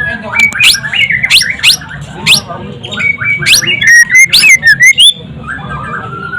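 White-rumped shama (murai batu) singing a fast, varied song of rapid rising whistles and chirps, which thins to a few softer, lower notes near the end.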